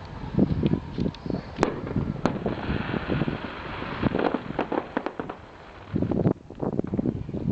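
Fireworks going off in rapid, irregular pops and bangs, with two sharp cracks in the first couple of seconds, a stretch of hissing crackle around three seconds in, and a dense burst of pops about six seconds in.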